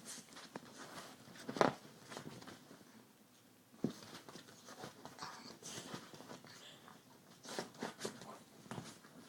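A puppy scrabbling about: faint scattered scratches, rustles and knocks, the loudest knocks about a second and a half in and just before four seconds.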